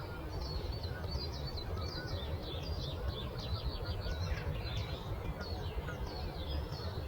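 Several small birds chirping, a dense run of short, quick, high chirps, over a steady low rumble.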